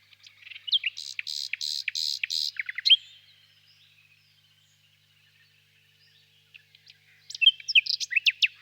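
Nightingale singing: a loud phrase of about five rapid, repeated harsh notes mixed with quick whistled slides in the first three seconds, then faint twittering, then a second phrase of sharp clicks and whistles near the end.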